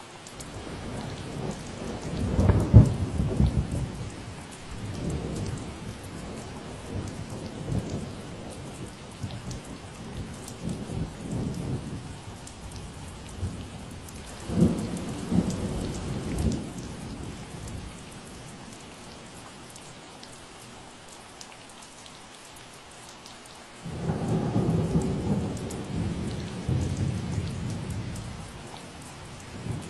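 Steady rain falling, with thunder rolling over it: a long rumble that peaks about three seconds in and comes back in waves, then after a lull another rumble that starts abruptly near the end.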